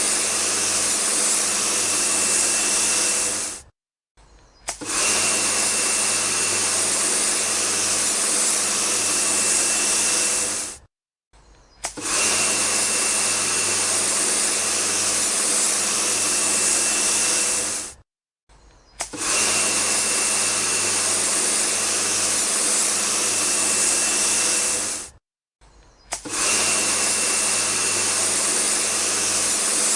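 A small motor whirring steadily with a thin high whine, stopping for about a second and starting again roughly every seven seconds.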